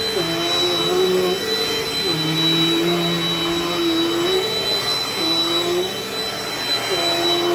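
Dirt Devil Dynamite Plus vacuum cleaner running steadily with a high whine, its lower motor hum dipping and coming back up in pitch every couple of seconds.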